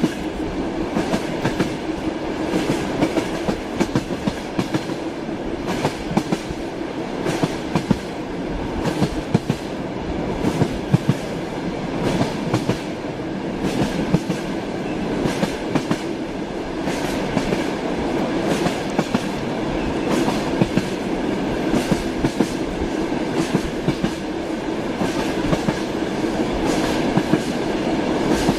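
Railway wheels clattering over rail joints as a train runs steadily, many sharp clicks over a continuous rumble.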